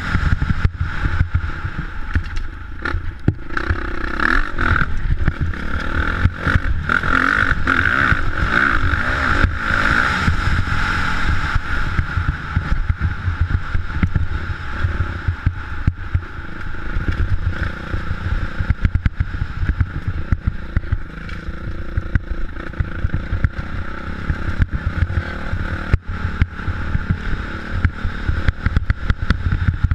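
Motocross motorcycle engine running and revving, with a rough rumble. It is loudest during the first dozen seconds, then eases somewhat.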